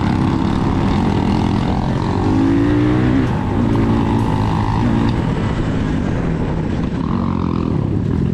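Motorcycle engine running hard under way, its pitch rising and falling as the throttle is worked, over a steady rush of road and wind noise.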